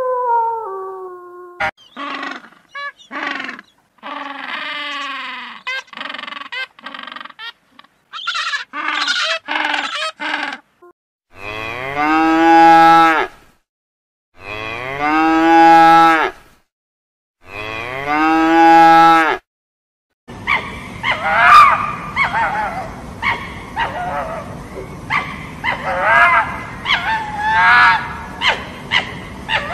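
A wolf's howl drops in pitch and fades in the first second, followed by a run of short, repeated yelping calls. Then a cow moos three times, each moo long and loud, about two seconds apart. The last third holds short high squealing calls, matching the red fox in view, over a background hiss.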